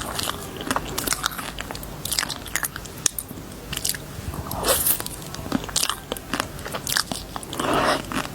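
Close-miked crunching of candy: a dense, irregular string of sharp crunches and crackles, with two longer, louder crunching bursts about halfway and near the end.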